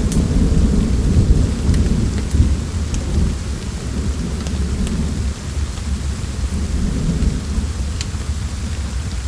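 A low rolling rumble of thunder that eases off after the first few seconds, over steady rain, with a few scattered sharp pops from a crackling wood fire.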